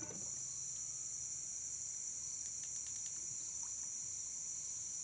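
A steady, high-pitched chorus of night insects such as crickets, chirring without a break, with a few faint ticks about halfway through.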